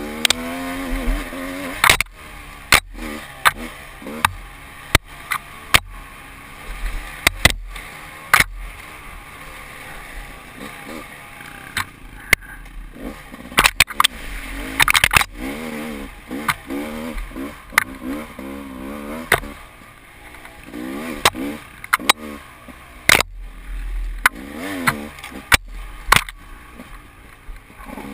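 Enduro motorcycle engine revving up and down over and over, its pitch rising and falling every second or two, with frequent sharp knocks and clatters throughout.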